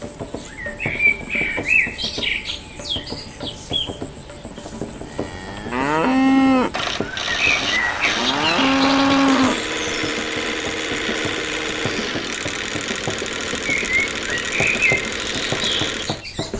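A cow mooing twice, each call about a second long, the second a couple of seconds after the first, with bird chirps before and after and a steady hum under the second half.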